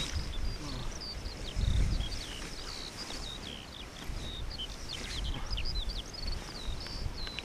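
A songbird singing a long unbroken run of quick, varied high chirps and trills. Wind rumbles low on the microphone, swelling about two seconds in.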